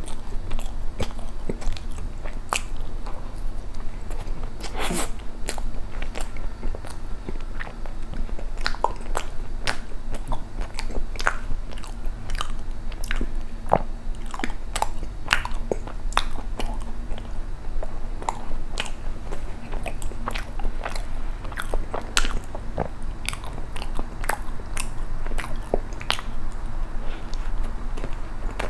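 Close-miked chewing and wet mouth sounds of a person eating soft matcha cream bread, with frequent sharp, irregular clicks and smacks.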